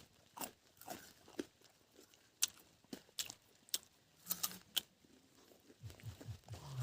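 Someone chewing a bite of fresh, crisp pear, with irregular sharp crunches.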